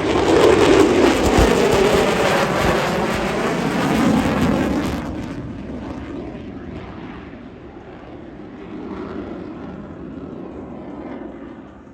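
F-22 Raptor's twin Pratt & Whitney F119 afterburning turbofans making loud jet noise as the fighter passes the crowd; the sound fades away after about five seconds.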